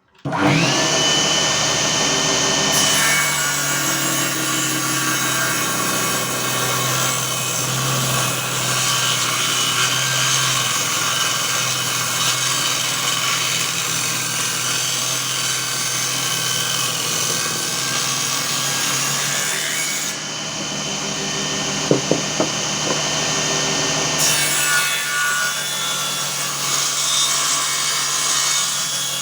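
A 7-inch 24-tooth circular saw blade driven by a 24 V 997 DC motor starts up and runs, a steady high whine with the rasp of the blade sawing wood. A couple of sharp knocks come about three-quarters of the way through.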